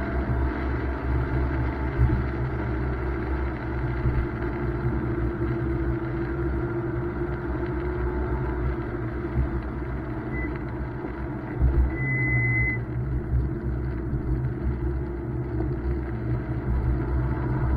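BMW M2's turbocharged straight-six engine running steadily on track, with engine tones rising and falling and continuous tyre and road noise on a wet surface. A brief high-pitched tone sounds about twelve seconds in, with a shorter one just before it.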